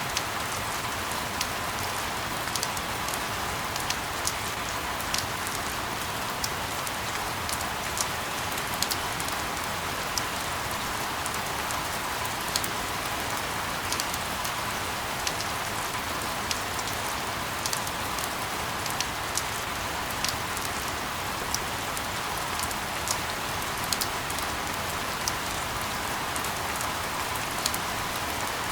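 Steady rain: an even hiss with frequent sharp ticks of single drops scattered through it.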